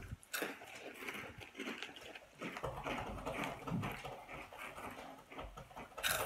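Close-up chewing and crunching of Slim Jim Fire Fries, a crunchy snack, as an irregular run of small crackles and mouth noises.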